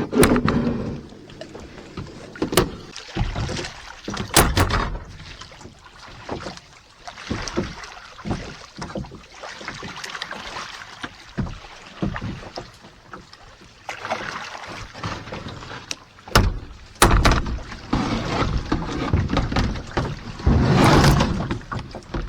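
Knocks and scrapes against a kayak hull with water sloshing and swishing, as a paddler moves about and climbs out of the boat. The sharp knocks come at irregular intervals, with louder swishing stretches near the end.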